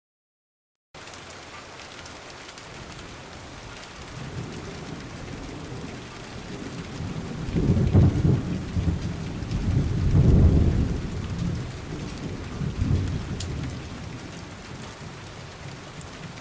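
Steady rain with rolling thunder. The rain starts about a second in, and low thunder rumbles build through the middle, loudest twice in a row, then die back to rain.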